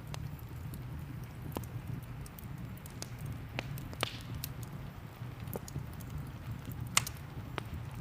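Fireplace and rain ambience: a steady low rumble under scattered sharp crackles and pops of burning wood, the loudest pop about seven seconds in.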